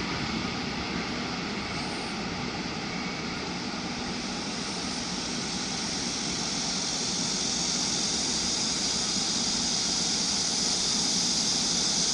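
Freight train rolling past at speed: a steady rumble of wheels on rail, with a hiss that grows stronger in the second half.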